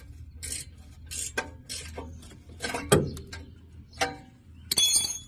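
Hand tools working on metal: a string of clinks and scrapes about every half second, with one sharp metallic clink about three seconds in.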